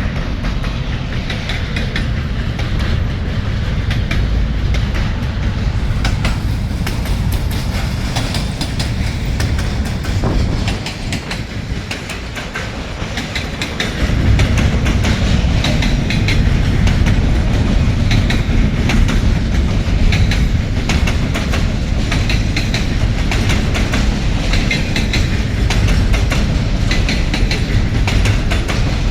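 Freight train cars rolling past, steel wheels clicking over rail joints above a steady low rumble. The rumble eases for a few seconds near the middle, then comes back louder.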